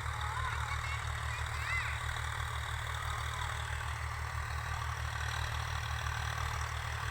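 Tractor's diesel engine running steadily in the field, with a low, even throb.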